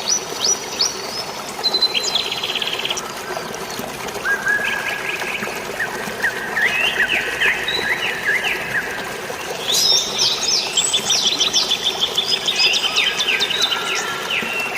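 Several birds chirping and trilling in quick runs, busiest about two-thirds of the way through, over a steady hiss of flowing water.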